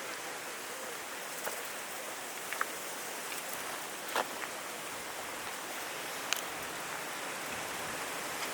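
Strong wind rushing through trees: a steady, even hiss, with a few faint short ticks scattered through it.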